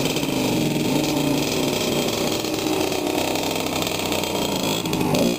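Dirt bike engine running steadily, its pitch rising and falling a little as the throttle is worked.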